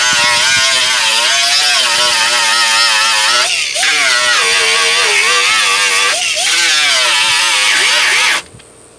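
Grinder with a 36-grit disc grinding paint off a sheet-metal tailgate down to bare metal: a loud motor whine over a grinding hiss. The pitch sags briefly twice as the disc bites, and the grinder shuts off suddenly near the end.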